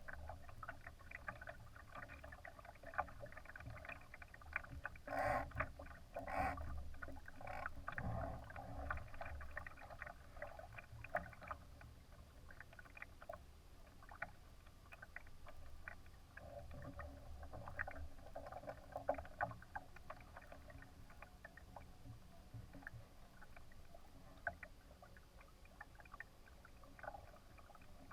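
Water splashing and lapping against the hull of a Laser sailing dinghy: many small irregular splashes, a few louder ones in the first third, over a steady low rumble.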